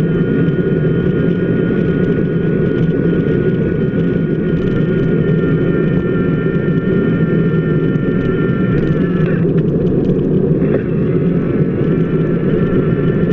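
Steady rumble of a bicycle wheel rolling on wet pavement, picked up by a camera mounted on the wheel hub. Above it runs a steady high whine that dips and breaks off about nine seconds in, then comes back.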